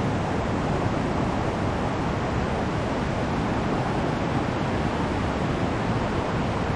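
Small mountain stream flowing, a steady rush of water with no breaks.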